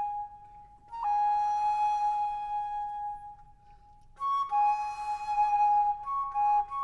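Background music: a flute playing long held notes, with a short pause partway through, then a few notes moving back and forth between two pitches.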